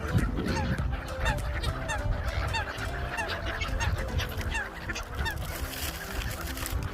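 A crowd of gulls and other waterbirds calling over one another, honking and squawking, many of the calls short and falling in pitch. A rushing noise comes in near the end.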